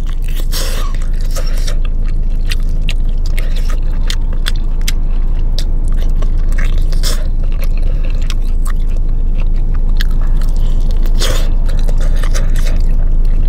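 Someone biting into and chewing a crispy fried chicken drumstick close to the microphone: many small crackling crunches and clicks scattered throughout. Underneath runs a steady low hum.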